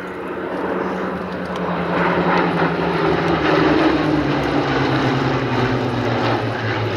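Piston-engined propeller warbird flying past. Its engine drone gets louder over the first two seconds, then drops in pitch as it goes by.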